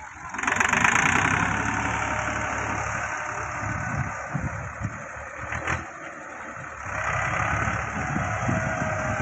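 Tractor diesel engine running hard, its noise jumping up sharply about half a second in and then holding steady, with one short sharp click near the middle.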